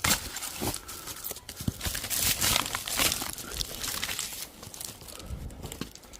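Dry twigs and brush crackling and rustling as they are handled: a dense run of snaps and crunches that starts suddenly and thins out toward the end.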